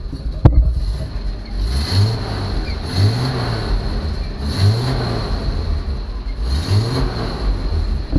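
1967 Kaiser Jeep M715 engine running and revved four times, each rev rising and falling back, with an exhaust leak at the manifold that the owner calls pretty bad. A sharp click comes about half a second in.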